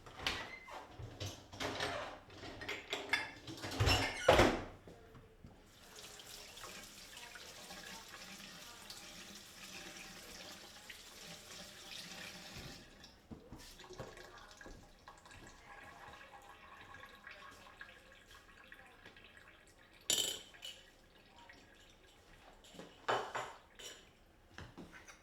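Water running from a tap into a sink for about seven seconds, after a run of clattering knocks, with a few sharp knocks near the end.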